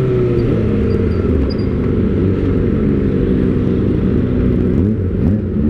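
Kawasaki ZX-25R inline-four with an Austin Racing aftermarket silencer running at low revs while stopped, its engine pitch drifting down and then rising again near the end.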